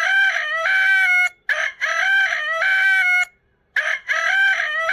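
Rooster crowing three times in a row, each a loud, drawn-out cock-a-doodle-doo with short breaks between them.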